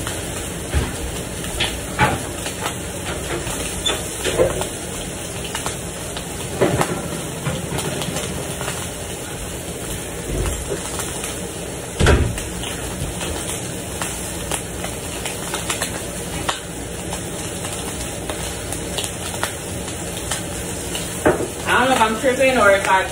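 Breakfast food frying in a pan: a steady sizzle, with scattered clicks and knocks of a utensil against the pan, the sharpest about halfway through. A voice is heard briefly near the end.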